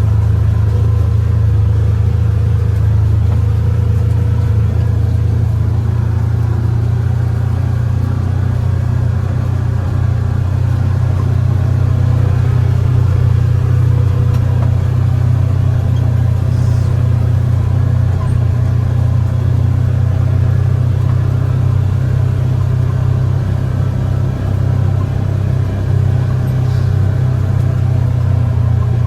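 Side-by-side utility vehicle's engine running steadily as it drives, a loud low drone with no let-up.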